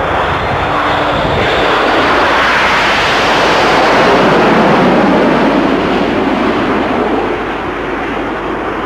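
Formation of nine BAe Hawk jets with Rolls-Royce Turbomeca Adour turbofans flying past: a steady jet noise that swells to its loudest about four seconds in, then eases off slightly.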